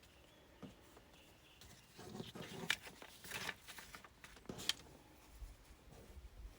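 Soft rustling and a few sharp clicks of paper and fabric craft pieces being handled on a table, with a low wind rumble on the microphone near the end.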